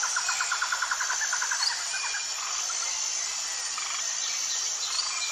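Outdoor nature ambience of birdsong: a rapid trill of short repeated notes, about ten a second, for the first two seconds, then scattered brief chirps over a steady high hiss like insects.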